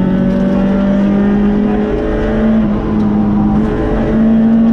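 Citroën rally car's engine at speed, heard from inside the cabin. Its note steps up in pitch about two seconds in, dips briefly, then climbs again near the end.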